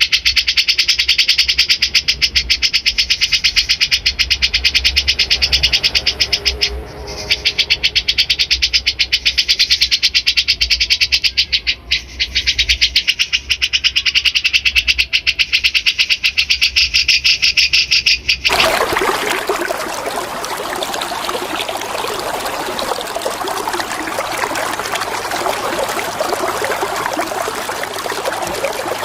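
A recorded songbird singing a very fast, buzzy, continuous chatter, with short breaks about 7 and 12 seconds in. About two-thirds of the way through it cuts off abruptly and steady running water takes over.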